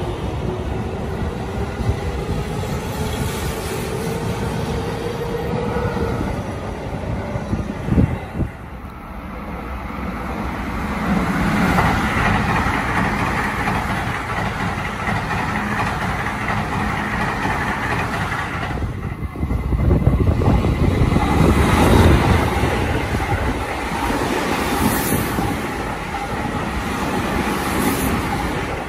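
Seibu electric commuter trains moving through a station. A train's motor whine rises in pitch over the first few seconds as it pulls away, with a sharp knock about eight seconds in. Then more trains run past with a steady rumble, loudest about twenty seconds in.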